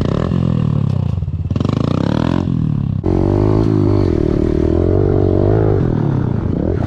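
Small pit bike engine revving hard under acceleration. The pitch climbs and drops back twice in the first three seconds as it shifts up through the gears, then holds high and fairly steady.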